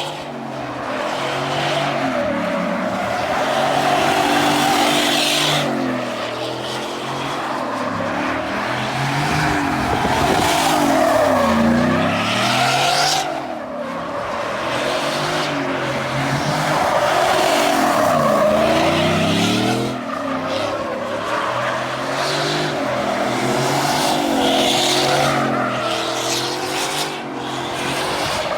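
Car engine driving through town, its pitch rising and falling every few seconds as it accelerates and slows, over steady road noise.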